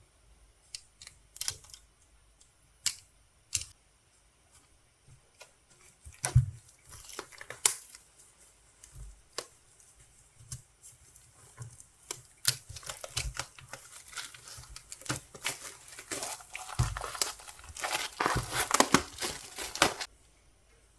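Album packaging being torn open and crinkled by hand: scattered sharp clicks and rips at first, then a long stretch of dense crinkling from about halfway through that stops just before the end.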